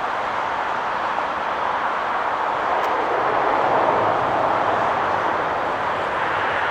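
Jet airliner on landing approach passing overhead, a steady rushing engine noise that swells to a peak about four seconds in and then eases.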